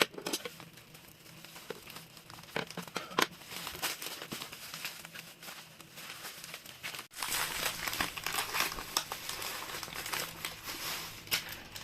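Plastic packaging crinkling and crackling as hands work at a tightly sealed slime-kit packet to get it open. The sound briefly cuts out about seven seconds in, then carries on a little louder.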